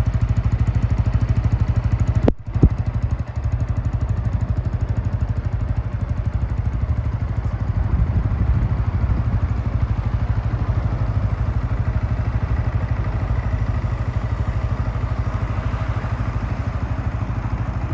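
Yamaha MT-125's single-cylinder four-stroke engine idling steadily through an aftermarket BEAMS muffler, with a brief break and a click a little over two seconds in.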